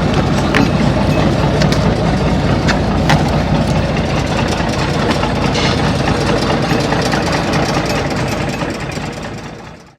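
Ferry boat's engine running steadily with a low rumble, fading out near the end.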